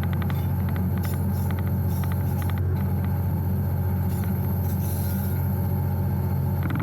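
EMD two-stroke diesel locomotive engine running steadily, heard from inside the cab, with clusters of rapid clicking on top.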